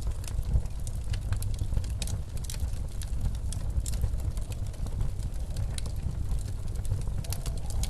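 Wood fire crackling in a fireplace with frequent sharp pops, over a steady low rumble of blizzard wind.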